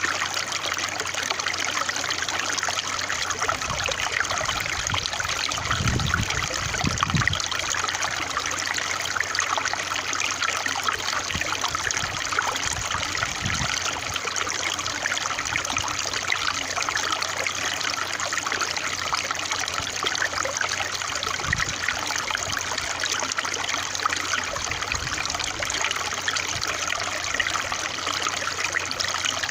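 Water flowing and trickling steadily in an even, continuous splashing rush, with a few faint low thumps.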